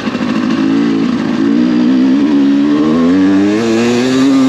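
2023 Sherco carbureted enduro dirt bike engine running under load, the revs climbing through the middle and then holding steady.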